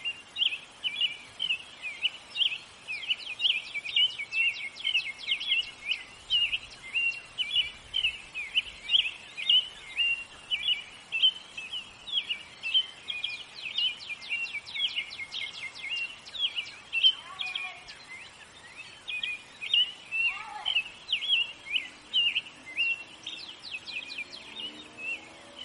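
Small birds chirping continuously, many quick overlapping chirps and short rapid trills. A faint lower wavering sound joins near the end.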